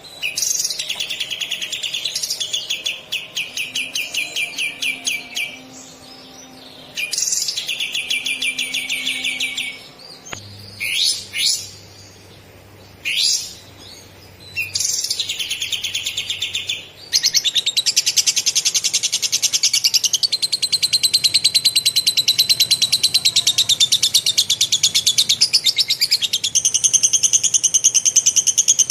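Kapas tembak songbird singing fast, tightly packed rolling trills in lovebird style. It sings several bouts with short breaks and a few single sweeping notes, then one unbroken trill that runs for over ten seconds near the end.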